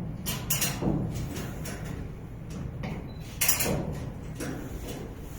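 Scattered knocks and clatter from spare parts being handled and secured inside a shipping container, loudest about three and a half seconds in.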